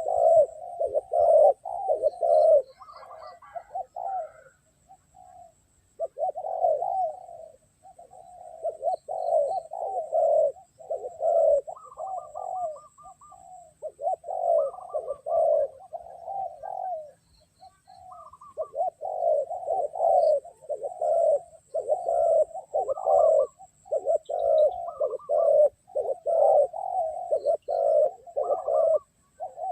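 Spotted doves cooing: phrase after phrase of low, repeated coo notes, a few notes to each phrase, with short pauses between phrases and a few higher chirps among them.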